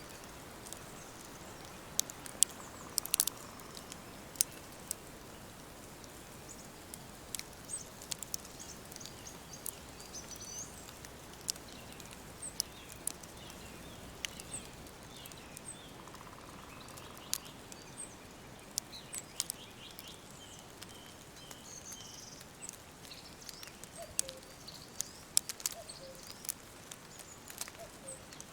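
Woodland ambience: a steady soft hiss with scattered sharp clicks or crackles, the loudest sounds, and faint birdsong of short high chirps and trills, with a few lower calls near the end.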